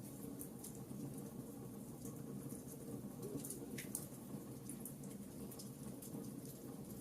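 Wood fire burning in a fireplace, crackling: irregular sharp pops and snaps over a steady low rush of flame, with one louder snap about four seconds in.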